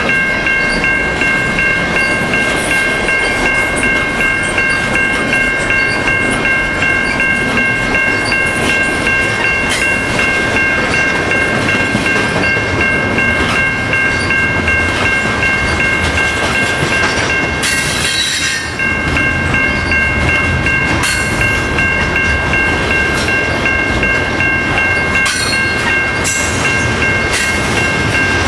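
Double-stack intermodal container well cars of a freight train rolling past: a steady rumble of steel wheels on rail with clickety-clack, under a steady high whine. A few brief sharp squeals and clanks stand out, the biggest about two-thirds of the way through and more near the end.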